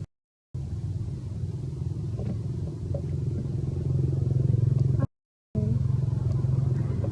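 A steady low motor hum, like an engine running, broken twice by brief cuts to total silence, once just after the start and once about five seconds in.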